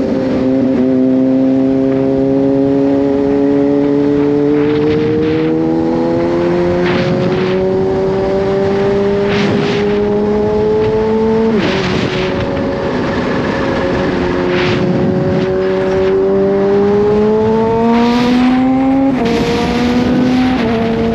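Kawasaki Z H2's supercharged 998 cc inline-four engine pulling at moderate throttle: its pitch climbs slowly, drops at an upshift about halfway through, then climbs again and drops at a second upshift near the end. Several brief whooshes sound over the engine.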